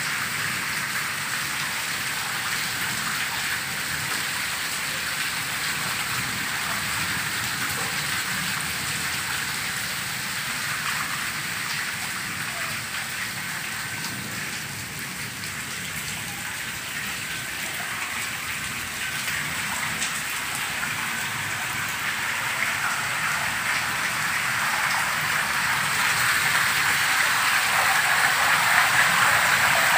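Heavy rain falling steadily, with rainwater running down concrete steps. The rain grows louder over the last few seconds.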